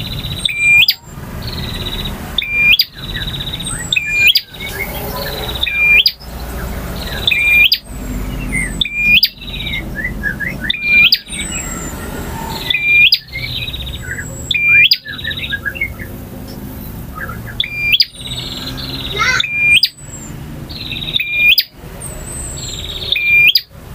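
Male bar-winged prinia (prenjak) singing a loud, high song phrase over and over, about once every two seconds. Thin, high sliding whistles come in between the phrases.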